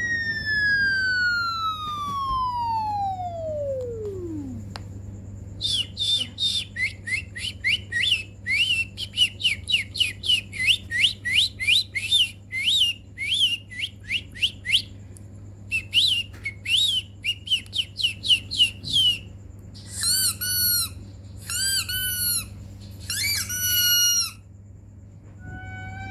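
Whistle and bird-call sound effects: first a long whistle sliding steadily down in pitch for about four seconds, then a run of quick bird-like chirps, two or three a second with a short break around the middle, then three warbling squeaky calls near the end. A steady low hum runs underneath.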